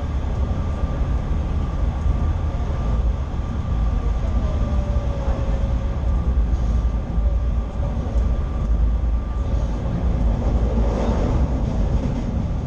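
Diesel railcar running through a single-track tunnel: a steady, loud low rumble of engine and wheels on rail, with a faint steady whine above it. The noise swells briefly near the end, as the train nears the tunnel mouth.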